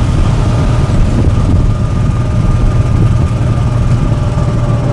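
John Deere tractor engine running steadily while the tractor drives along, heard from on board: a loud, even low rumble with a faint steady whine above it.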